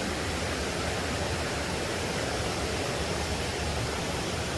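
Steady rush of running water from a small waterfall, an even noise with no breaks.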